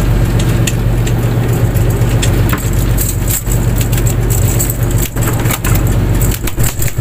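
Fishing boat's engine running steadily, with scattered knocks and clatter over it, most of them in the second half.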